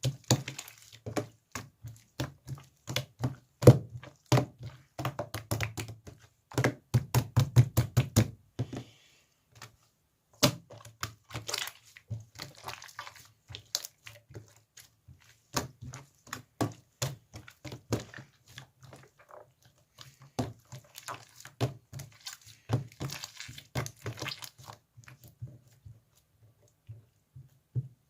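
Slime being pressed and poked by hand, making quick, irregular clicking pops of trapped air. The pops come thicker in runs, and there are brief pauses.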